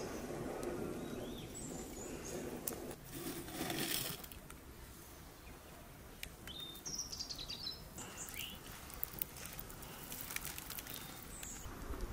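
Small birds chirping now and then over a faint outdoor background, with a brief rustle about three to four seconds in.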